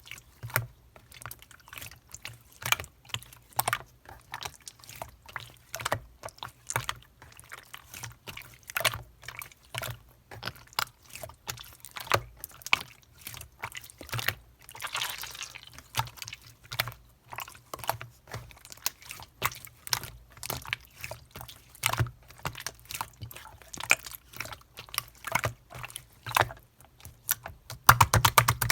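Slime being squeezed, pressed and stretched by hand, giving a steady run of sticky clicks and wet pops, with a longer squelch about halfway through and a burst of louder pops near the end.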